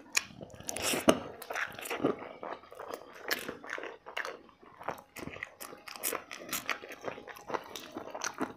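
A person chewing and biting food close to the microphone, with many small irregular crunches and clicks.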